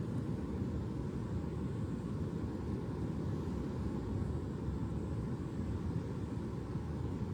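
Steady low rumbling noise with no distinct events or rhythm.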